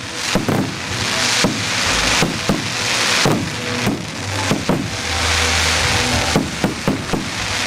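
Fireworks display going off: a rapid series of sharp bangs, often several a second, over a continuous crackling hiss.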